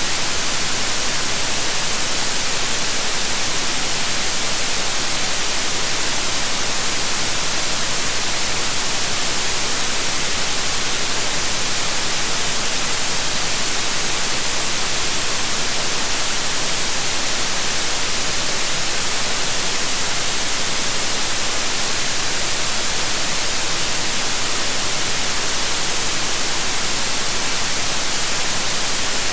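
Synthetic white noise: an even, steady hiss, brightest in the high frequencies, with no changes.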